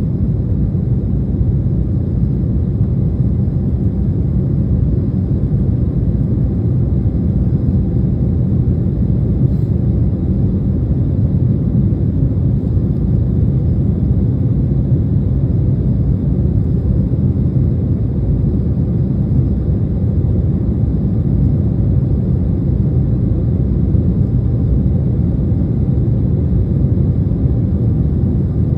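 Steady low rumble of a Boeing 737 heard from inside the passenger cabin: jet engine and airflow noise as the airliner nears the end of its climb.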